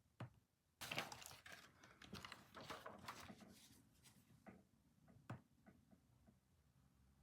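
Quiet clicks and rustling from handling things on a desk: one click, then a dense run of clicks and rustle lasting about three seconds, then a few scattered clicks.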